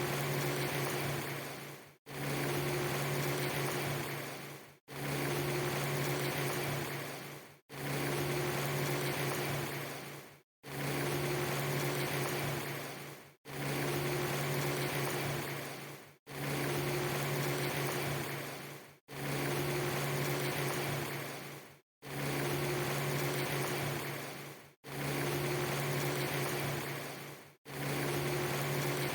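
A short ambience loop repeating about every three seconds: a steady hiss over a low, constant hum, each pass fading and cutting to a brief dropout before starting again.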